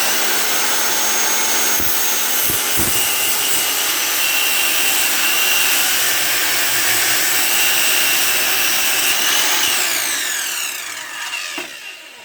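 Chicago Electric 12 amp 7¼-inch corded circular saw running and cutting through a 2x4, its whine rising and falling with the load. About ten seconds in the trigger is released and the motor winds down with a falling pitch.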